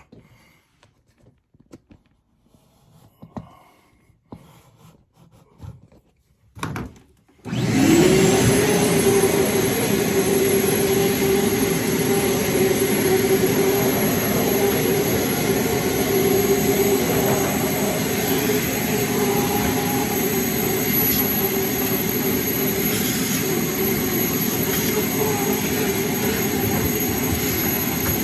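Small vacuum cleaner switched on about seven seconds in after a few faint handling knocks. Its motor spins up quickly and runs on with a steady whine while it vacuums built-up lint out of the dryer's lint compartment.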